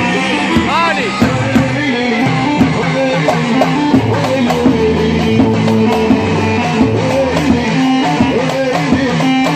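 Live band music with a steady drum beat and a lead melody that slides up and down in pitch over plucked strings.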